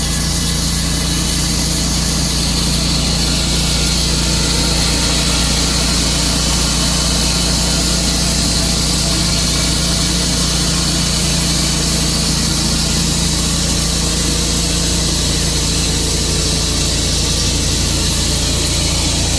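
Tru-Cut sawmill running steadily: a loud, constant engine and machine noise with no change in pitch or level.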